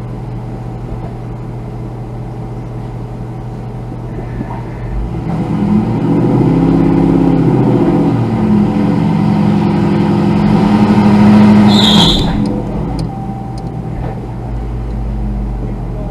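Car engine idling, then revved under load for several seconds, rising and falling and holding higher, as the stuck car is driven forward while people push it, then dropping back to idle. A short high squeak comes at the end of the revving.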